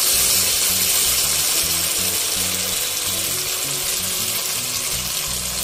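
Hot oil sizzling steadily in a kadai as tomato paste fries with browned onions, over background music with a low bass line whose notes change every fraction of a second.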